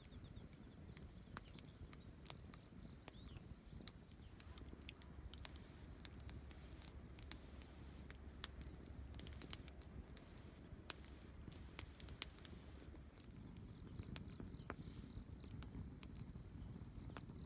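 Wood campfire crackling, with scattered sharp pops, a few louder ones in the middle, over a low steady rumble.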